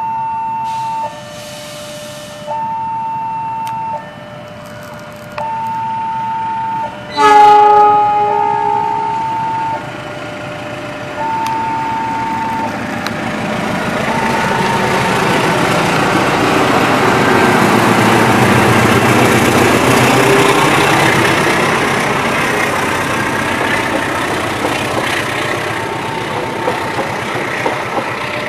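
Level-crossing warning alarm sounding two alternating tones, a high and a low, each about a second and a half long. About seven seconds in, the GE CC206 diesel-electric locomotive gives one loud horn blast of about a second. Then the locomotive and its coaches pass over the crossing: a rumble that builds, peaks and slowly eases, and drowns out the alarm.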